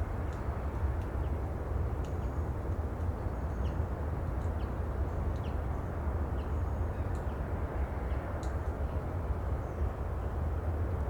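Steady sea ambience: an even, low rumbling wash of noise, with faint short high chirps scattered through it.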